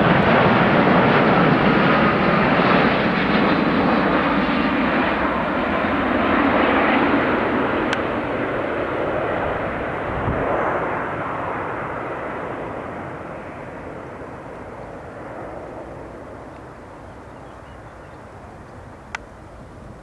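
Aircraft engine noise that fades steadily and grows duller, the higher sounds dying away first. One sharp click comes near the end.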